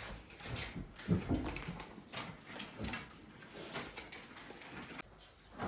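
Faint, scattered light knocks and clicks, a few each second, in a small room.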